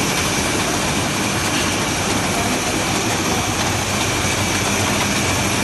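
Double horizontal bandsaw (Multisaw 2X resaw) running at a steady level: a dense machine noise with a low hum and a thin high whine.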